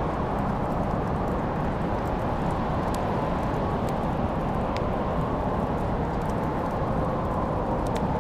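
Wood fire burning in a fireplace: a steady low rushing noise with a few faint, sharp crackles scattered through it.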